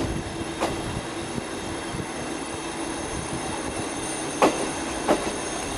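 Steady running noise of a steam-hauled train with a faint steady hum, broken by a few sharp clicks, three in all.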